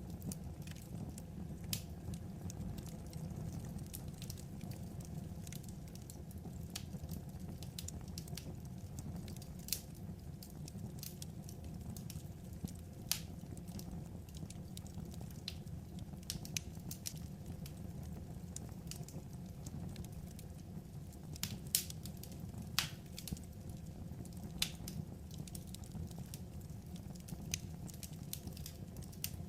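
Wood fire burning: a steady low rumble with irregular sharp crackles and pops, a few standing out louder.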